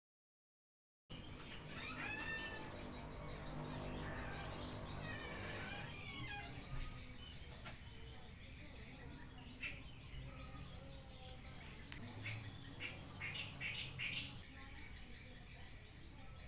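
Small birds chirping and tweeting in short repeated calls, starting about a second in. A few short knocks or clicks come in the second half.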